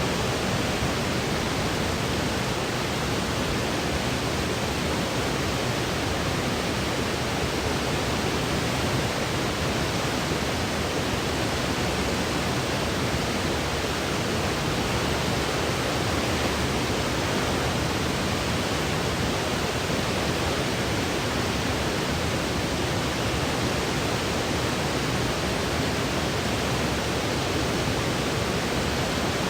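Steady electronically generated white noise used as a baby sleep aid: an even, unchanging hiss, a little heavier in the low end.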